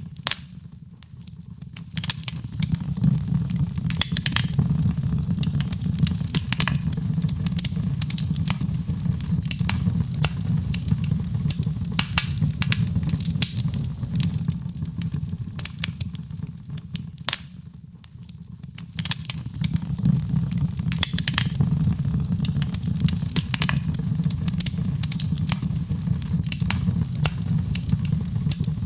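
Wood fire burning in a fireplace: frequent crackles and pops over a low steady rumble, with two brief quieter lulls, about a second in and again a little past halfway.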